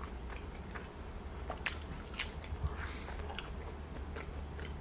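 A person chewing a mouthful of food close to the microphone: soft wet mouth clicks and smacks with a few sharper crunchy snaps, the sharpest about a second and a half in.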